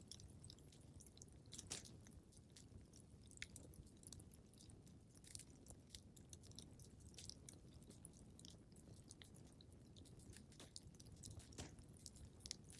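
Faint crackling of a wood fire in a fireplace: irregular small pops and snaps over a soft low rumble of the burning fire, with two louder pops, one near the start and one near the end.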